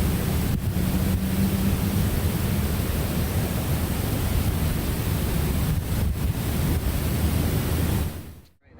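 Steady rushing noise with a strong low rumble, fading out near the end.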